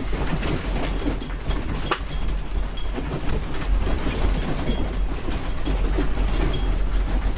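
A deep continuous rumble with many quick rattles and clicks throughout: a room shaking in an earthquake, with loose fittings and objects rattling.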